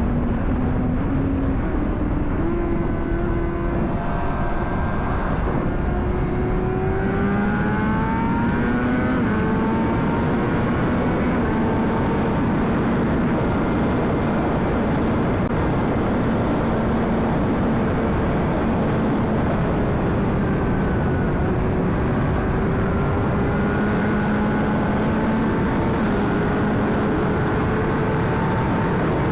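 2009 Honda CBR600RR's inline-four engine running under way through heavy wind rush. Its pitch rises steadily for a few seconds about six seconds in, then holds with small rises and falls.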